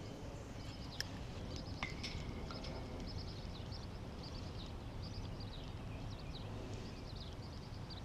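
Small birds chirping and calling repeatedly over a steady low outdoor rumble, with a single sharp click about a second in.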